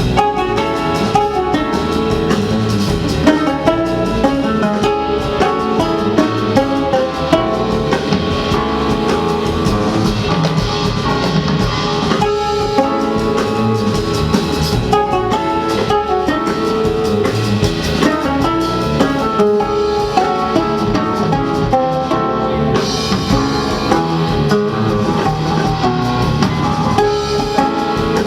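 Jazz band playing, with a drum kit keeping time under plucked strings and a long note held steady throughout.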